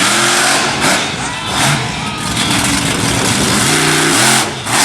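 Monster truck engine revving, its pitch swinging up and down repeatedly over a loud, steady roar of noise.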